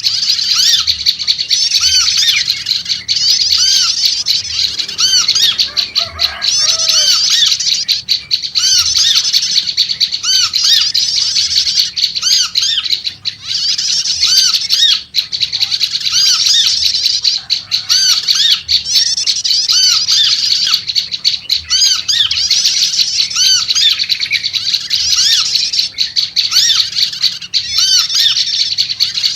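Prenjak lumut chattering busily and without pause in fast, high, scolding notes, while a yellow-vented bulbul (trucuk) repeats short arched call notes lower down, about one a second.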